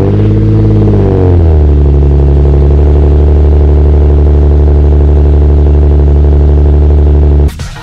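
Car engine just after starting: the revs flare and drop back, then settle into a steady idle, which cuts off suddenly near the end.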